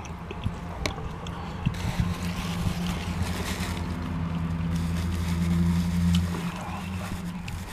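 Low, steady engine hum of a motor vehicle idling, which grows louder for a few seconds and eases off about six seconds in. A few faint light clicks sound early on.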